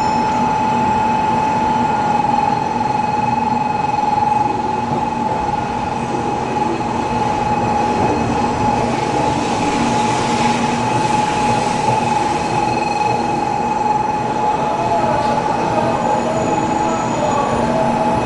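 Shinkansen high-speed train running on the rails, a steady high-pitched whine held over continuous rail noise.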